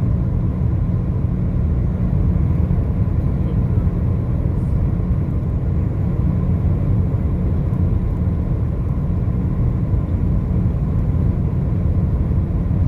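Steady low road and engine rumble of a car driving on a highway, unchanging throughout, with a faint steady whine above it.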